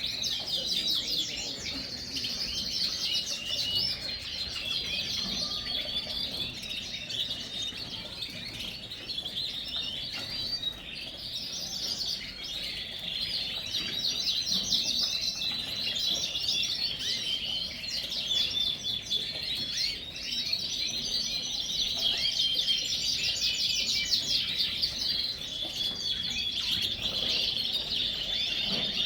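Many Yorkshire canaries singing at once: a dense, continuous chorus of high trills and chirps.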